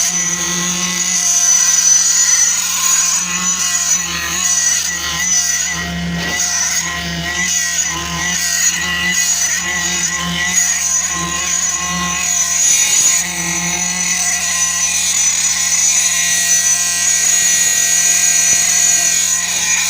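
Concrete-pouring machinery running steadily. A continuous high motor whine sits over a low hum that swells and fades irregularly, typical of a concrete poker vibrator and pump working during a pour.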